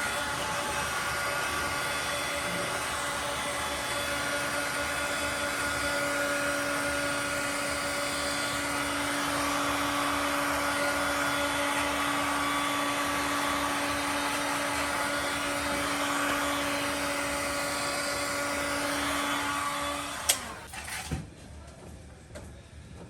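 An electric motor tool running steadily with a constant whine, then switched off about twenty seconds in, followed by a couple of sharp knocks.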